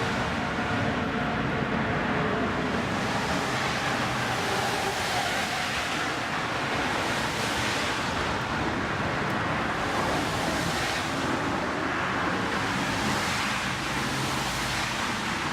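Steady, even rushing noise of a Boeing 777's jet engines, mixed with wind on the microphone.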